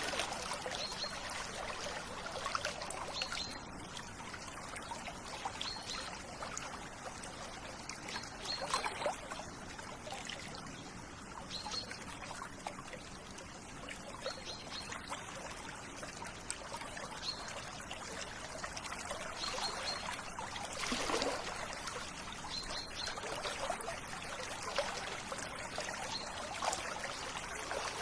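River water flowing and trickling steadily, with short high bird chirps repeating every second or two over it.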